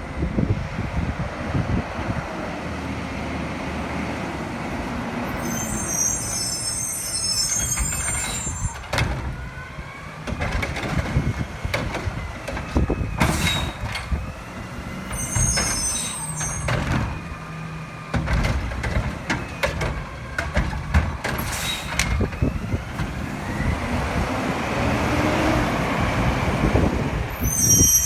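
Heil refuse truck working a recycling pickup. Its diesel engine runs and revs in rising and falling glides, with an air-brake hiss three times and a couple of sharp metal knocks.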